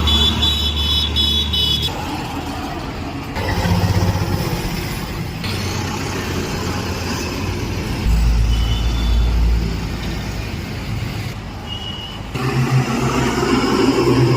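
Road vehicle engines and traffic noise, in short segments that change abruptly every few seconds, with a brief high-pitched tone near the start.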